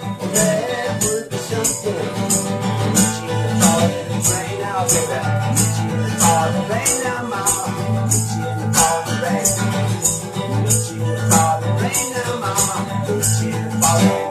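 Instrumental break of a song: guitar accompaniment with a shaker keeping a steady beat at about two shakes a second, and a melody line with gliding notes over it.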